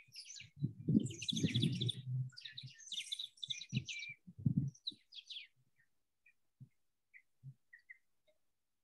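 Small birds chirping and twittering, busy for the first five seconds or so, then only scattered faint chirps. A low sound sits under the chirps for the first couple of seconds.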